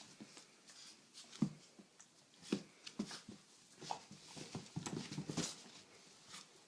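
Great Dane puppies wrestling in play: scattered scuffles and knocks mixed with short, low dog vocal sounds, with a busier burst of them about five seconds in.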